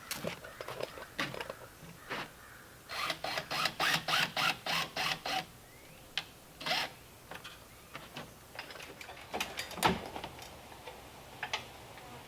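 Hand woodworking on timber: a run of quick, even rasping strokes, about four a second, lasting a couple of seconds, with scattered taps and knocks before and after.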